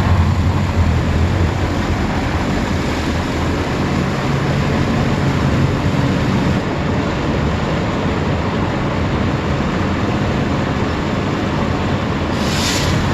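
Automatic car wash machinery working over the car, heard from inside: a loud, steady wash of noise over a low hum, with a brief sharper hiss near the end.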